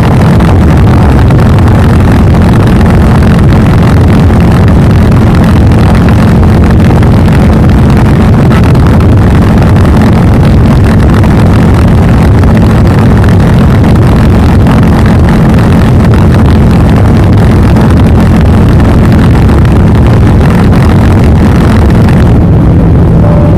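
Royal Enfield Classic 350's single-cylinder engine and exhaust running loud and steady at an even pitch. About 22 seconds in, the pitch drops slightly and the note gets duller.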